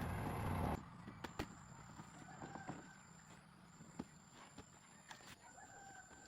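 An engine running, cut off abruptly under a second in. Then faint rooster crowing twice, with a few light clicks.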